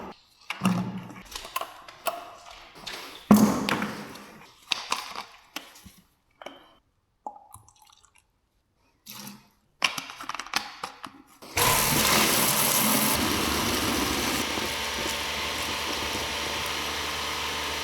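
Scattered knocks and handling clatter, then about twelve seconds in a pressure washer starts and sprays water with a steady hiss over a motor hum.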